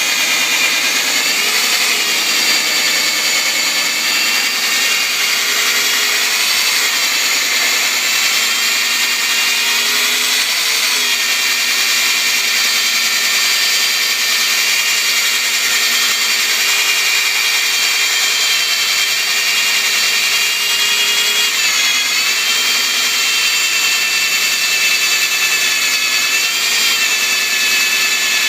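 Metal-drilling machine running with a steady high whine, its pitch dipping briefly several times.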